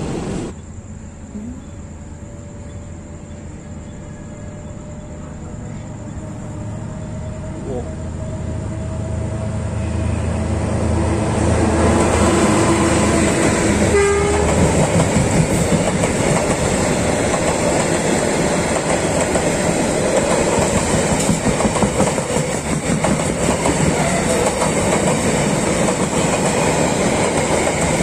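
A passenger train approaching and passing at speed: it grows steadily louder for about twelve seconds, then its coaches go by close with a loud, steady rumble and rapid wheel clatter over the rail joints.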